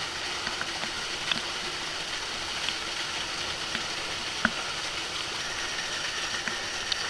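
Waterfall rushing steadily, with a scattered handful of short sharp drips or splashes, the loudest about four and a half seconds in.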